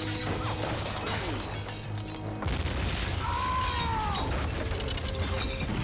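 Film sound of artillery shellfire under music: booming explosions and crashing, shattering debris, with a falling whistle about three seconds in.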